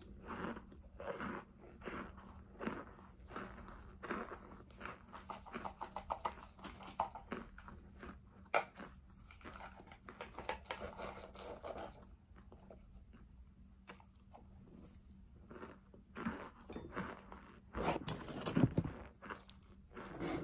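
Close-up chewing of crunchy homemade cornstarch chunks: a dense run of crackling crunches, a quieter stretch of a few seconds around the middle, then louder crunching again near the end.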